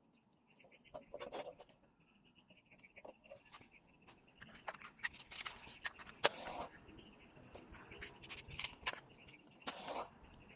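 Irregular knocks and clatters, the loudest about six seconds in, over a steady background of crickets chirring.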